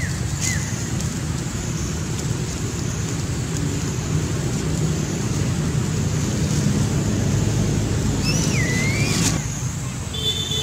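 Steady low wind rumble on the microphone, with a couple of brief high squeaks, one at the start and one near the end, and a sudden cut near the end.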